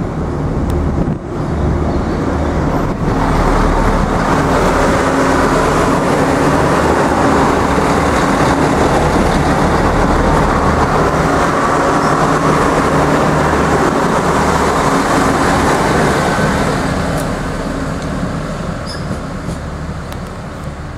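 Irish Rail 29000 class diesel multiple unit passing close by, its underfloor diesel engines humming under the loud rush of wheels on the rails. The sound fades away over the last few seconds as the train pulls off into the distance.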